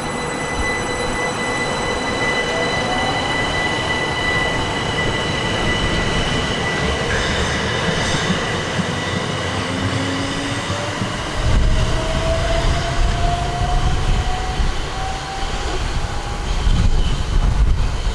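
Class 375 Electrostar electric multiple unit pulling away, its traction motors whining with a tone that rises slowly in pitch as it accelerates, over a low rumble from the train that grows heavier about halfway through.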